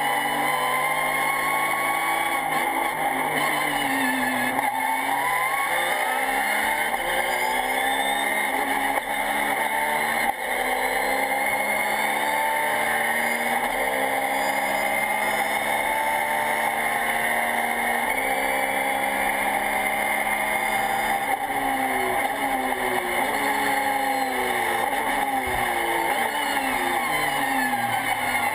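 Race car engine heard from inside the cockpit, its pitch climbing and dropping again and again as it pulls through the gears and comes off the throttle.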